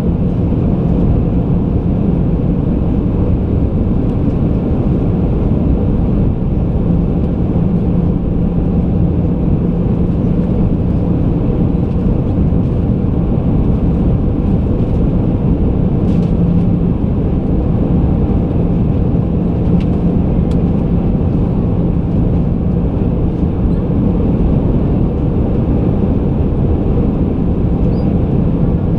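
Airbus A320 cabin noise: a steady rush of engine and airflow noise with a low, steady hum underneath.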